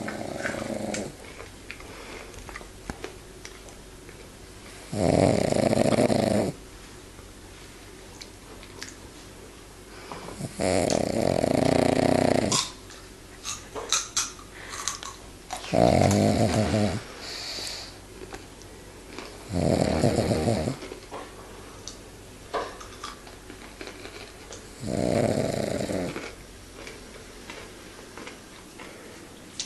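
Pug snoring: six rattling snores, one about every five seconds, each lasting one to two seconds.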